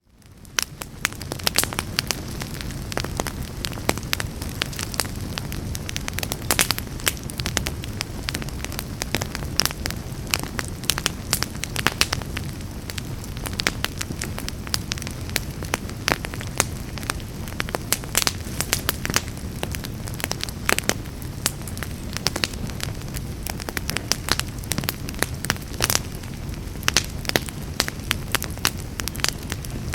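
Fire burning in a fireplace: a steady low rumble of flames with frequent sharp, irregular crackles and pops. It fades in from near silence over the first second.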